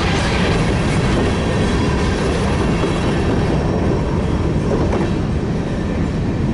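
Freight cars of a grain train rolling past, a loud steady noise of wheels running on the rails.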